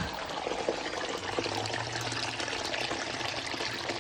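Leaking water trickling steadily as it runs across the crawlspace floor and drains down a hole in the ground, a sign of a flooding crawlspace.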